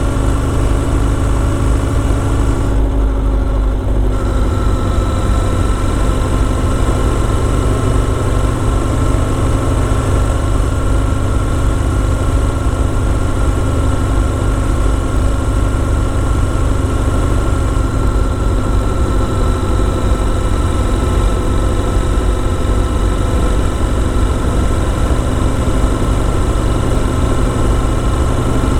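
Motorcycle engine running at a steady pitch with no wind noise, its note easing briefly about three seconds in.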